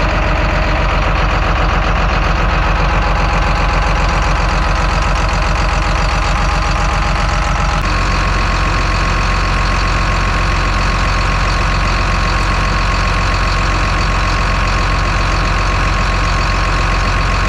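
John Deere 724J loader's common-rail diesel engine running steadily with an even note, its misfire cured by a replaced injector; its tone shifts slightly about eight seconds in.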